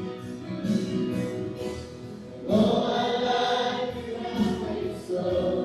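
Worship song being sung by a group of voices with instrumental accompaniment, swelling louder about two and a half seconds in.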